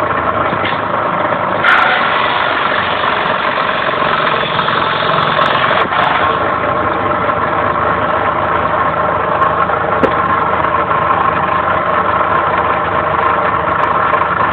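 Homemade belt-driven circular saw, powered by the electric motor of an old BTsN household water pump, running steadily with its motor hum and a few brief clicks.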